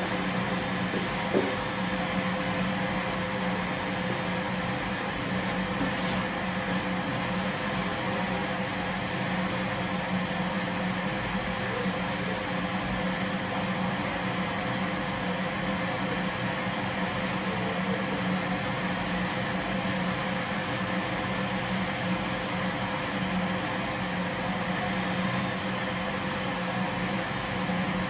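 Vacuum cleaner running steadily, a continuous even drone with a low hum, and one brief knock about a second and a half in.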